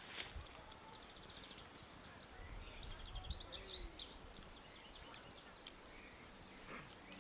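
Faint outdoor ambience with scattered bird chirps, and a brief low rumble around the middle.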